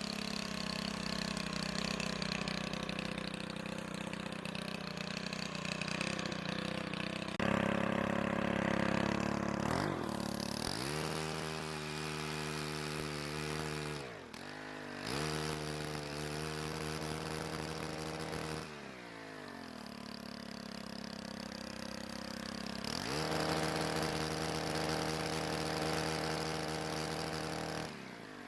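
Gas pole chainsaw's small engine running throughout, its pitch changing with the throttle: it revs up about ten seconds in, dips briefly near the middle, drops back about two-thirds of the way through, then revs up again.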